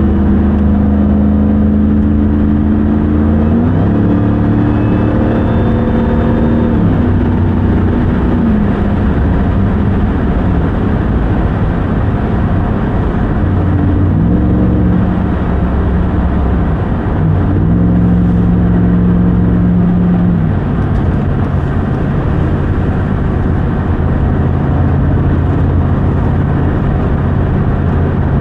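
2021 RAM 1500 TRX's supercharged 6.2-litre Hemi V8 driving along, over steady road noise. The engine note holds steady, steps up a few seconds in, falls away a few seconds later, returns for two steady stretches around the middle, then settles to a lower steady drone.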